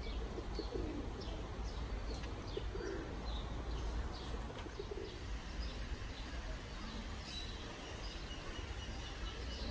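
Birds calling: many short high chirps throughout, with a few low calls in the first half, over a steady low background rumble.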